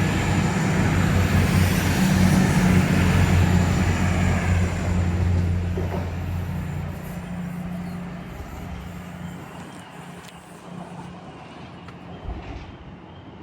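Diesel train's engine running with a steady low drone and rumble, loud at first, then fading away over several seconds as the train moves off.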